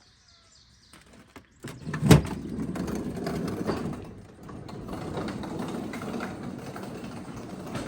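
Live cat trap rattling and scraping with a trapped feral cat inside: a sharp knock about two seconds in, then about six seconds of continuous rattling that stops near the end.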